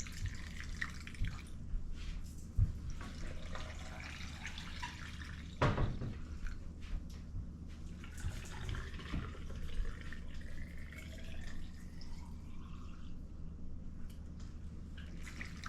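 Vinegar-and-water brine being poured into glass jars packed with cucumber spears, a steady trickling, splashing pour whose note slowly rises in pitch as a jar fills. A few short knocks break in, the loudest about five and a half seconds in.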